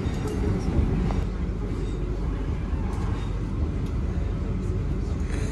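Class 444 Desiro electric train running along the track, a steady low rumble with a few faint clicks.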